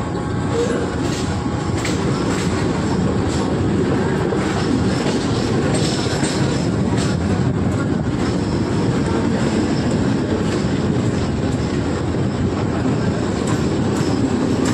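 Mumbai suburban electric local train running over the tracks, heard from the open doorway of a moving coach: a steady rumble of wheels on rail, with irregular clicks as the wheels pass over rail joints and points.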